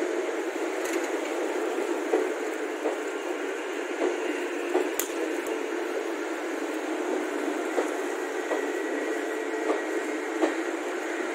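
Passenger train coaches rolling past on the move, a steady rumble of wheels on rail with sharp clicks at uneven intervals as the wheels pass over rail joints.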